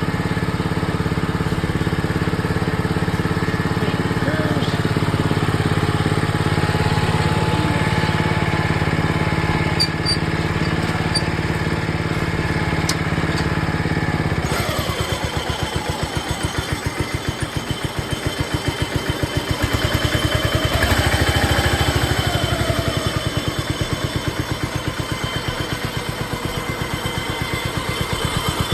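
Craftsman lawn tractor engine running again after its carburetor was cleaned of the tank debris that kept jamming the needle valve. It runs steadily at first, then about halfway through the sound changes abruptly to a choppier, pulsing note whose loudness rises and falls a few times.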